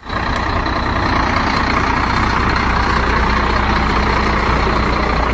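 Heavy semi-trailer truck's engine running with road noise, a steady drone that starts suddenly.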